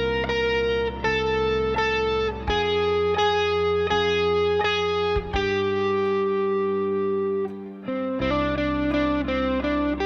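Instrumental guitar music from ukulele, acoustic guitar and electric guitar: an effects-laden electric guitar holds a slow melody of long sustained notes over plucked chords and a low bass line, with a short break just before the last couple of seconds.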